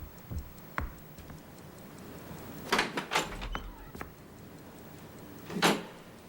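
A few scattered knocks and short scuffing sounds, the loudest near the end, over a faint, steady ticking.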